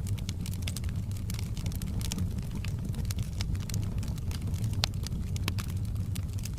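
Wood fire in a fireplace crackling: many short, sharp pops and snaps over a steady low rumble of the flames, with one louder pop near the end.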